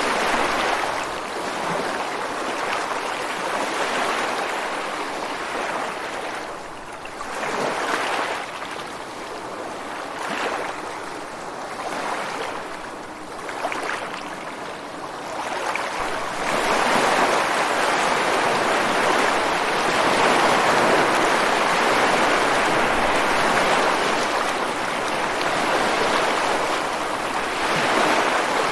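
Ocean waves breaking and washing on a rocky shore: a steady rushing of surf that swells and ebbs, growing louder and fuller about halfway through.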